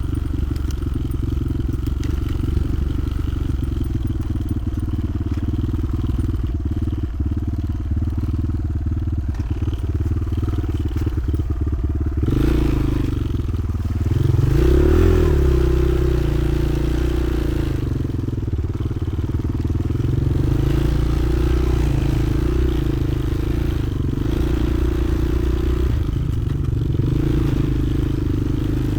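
Motoland XR 300 Lite enduro motorcycle engine running under way, steady for the first twelve seconds, then changing note, with a rise in revs around fifteen seconds in before settling again.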